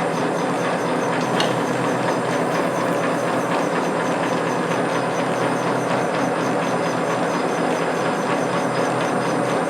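Metal lathe running steadily at about 250 RPM, its gear train and lead screw driving the carriage through the half nut during a single-point thread-cutting pass, with a faint even ticking. One brief click about a second and a half in.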